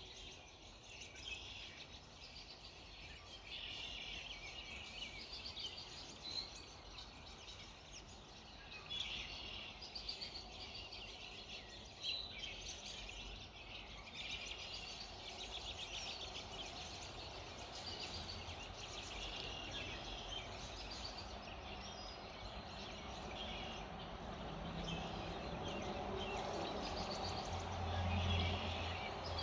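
Early-morning chorus of many small birds singing and chirping over one another. A louder low sound swells near the end.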